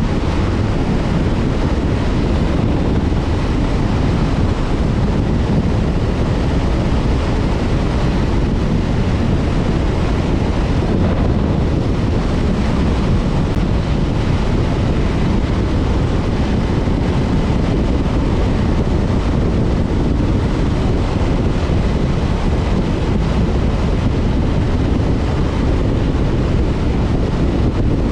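Steady wind rushing over the camera microphone of a motorcycle at cruising speed, with the Honda CB500F's parallel-twin engine running evenly underneath.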